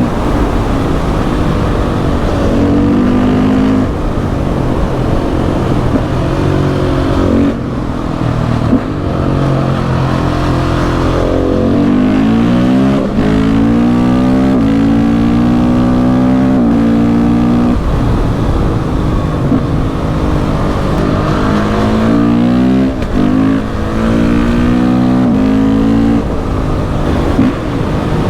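KTM 690 SMC R's single-cylinder engine pulling hard under acceleration while riding. It climbs in pitch through the gears again and again, with short drops as the throttle closes or a gear changes.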